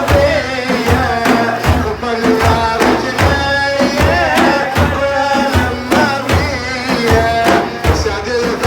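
A male praise singer chanting an Arabic devotional praise song for the Prophet over drums that beat a steady rhythm, a stroke a little under every second.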